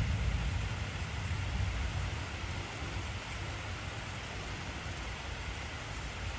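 Heavy rain falling steadily. A low rumble of thunder dies away over the first two seconds or so.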